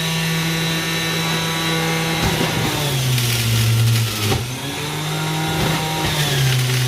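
Electric juicer motor running with a steady hum, its pitch sagging twice as produce is pushed into the chute and the motor slows under the load, then picking back up.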